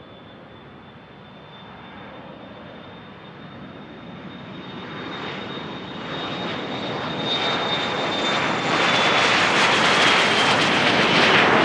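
Business jet's turbofan engines passing close on the runway, growing steadily louder into a loud rush. A thin high turbine whine runs through it and falls slightly in pitch near the end as the jet goes by.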